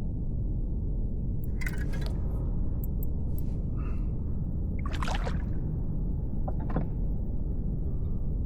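Water splashing and dripping in short bursts, three main times, over a steady low rush of wind on the microphone.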